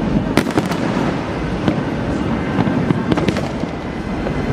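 Fireworks going off: a run of sharp bangs and crackles, clustered about half a second in, near 2 s and around 3 s, over a continuous low rumble of the display.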